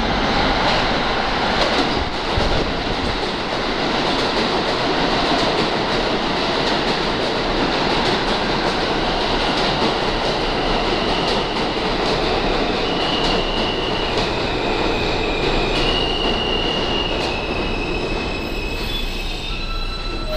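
R160A New York City subway train running along the track, with a loud, steady rumble of wheels on rail. About halfway through, the stepped electronic whine of its AC traction motors comes in, shifting between a few set pitches.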